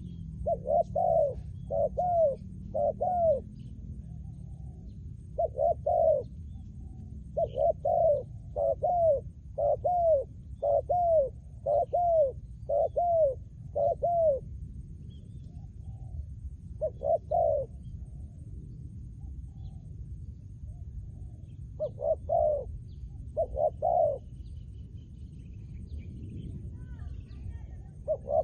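Spotted dove cooing: short arched coo notes in runs of two to eight, with pauses of a few seconds between runs.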